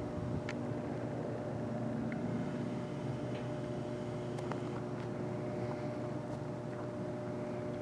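Boxcars of a freight train rolling past on the rails: a steady rumble with a few steady tones in it and scattered light clicks and squeaks from the wheels and couplers.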